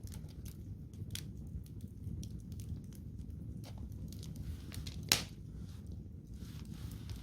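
Wood campfire crackling: scattered small snaps over a low steady rumble, with one sharp, loud pop about five seconds in.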